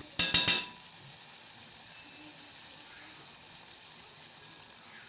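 Cuttlefish pieces sizzling in olive oil in a stainless-steel pot, a steady hiss. About half a second in, a metal spoon clinks against the pot several times in quick succession while stirring.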